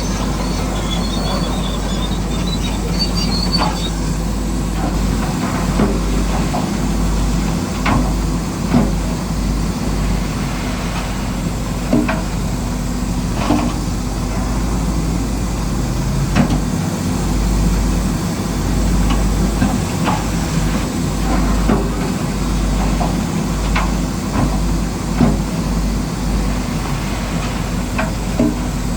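Radio-controlled model construction machine running: its electric drive motors and gearbox whir steadily, with irregular sharp clicks and knocks from the tracks and rocks being pushed.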